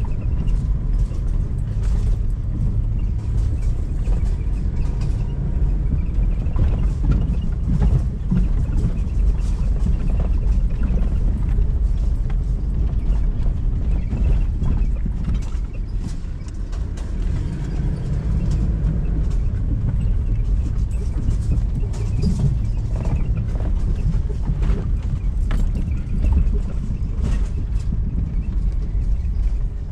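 Vehicle running with a steady low rumble and frequent rattles and knocks, typical of driving over a rough track.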